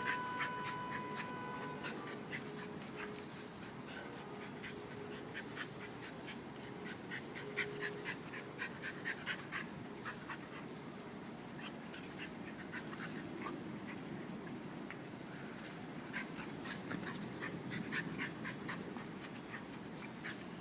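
Two dogs playing, with many short clicks and scuffles throughout.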